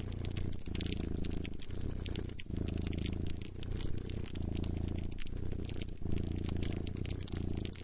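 A cat purring close up, its low purr breaking briefly about once a second with each breath. A wood fire crackles over it in sharp scattered pops.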